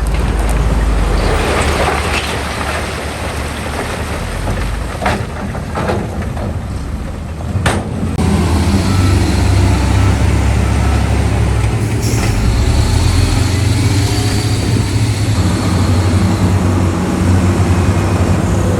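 Heavy diesel earthmoving machinery running, a low steady engine rumble, with a few sharp knocks in the middle; the engine grows louder and steadier about eight seconds in.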